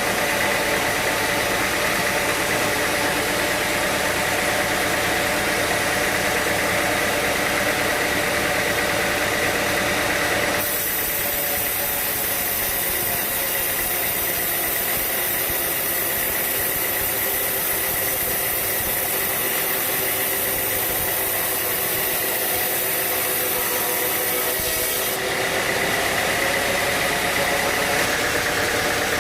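Sawmill machinery running steadily, an engine-driven drone with a steady hum. Its sound shifts abruptly about ten seconds in and shifts back a few seconds before the end.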